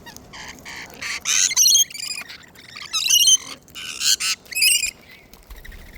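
Wild cockatoos squawking: a run of short, harsh, raspy calls in three or four clusters, falling quiet about five seconds in.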